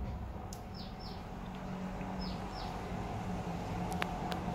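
A small bird chirping: short high calls, mostly in pairs, each falling quickly in pitch, over a steady low hum. Two sharp clicks come near the end.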